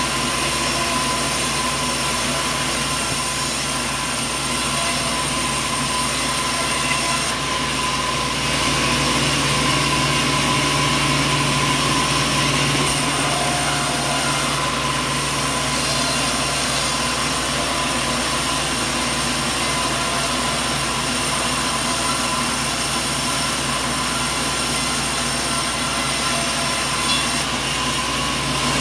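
Sawmill machinery running steadily: a continuous mechanical drone with several constant whining tones layered over it, unchanging in level.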